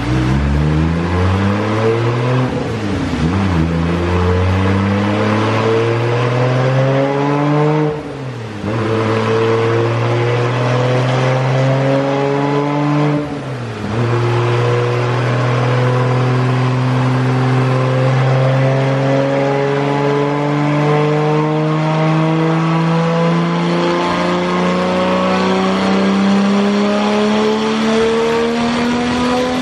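Nissan Skyline R33's Tomei RB27 straight-six with a single turbo, run hard on a chassis dyno. It shifts up four times in the first fourteen seconds, the pitch dropping at each change, then makes one long pull in a single gear, rising slowly and steadily in pitch.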